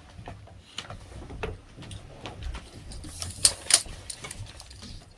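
A scattering of light clicks and taps, with a few louder sharp clicks about three and a half seconds in.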